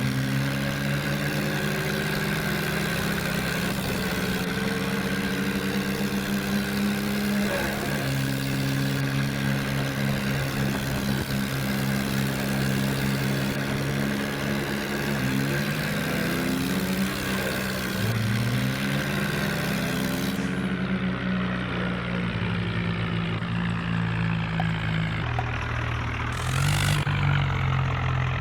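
Several diesel tractor engines running at once in a tractor tug-of-war, their pitches rising and falling as they are revved. Near the end there is a brief hissing burst.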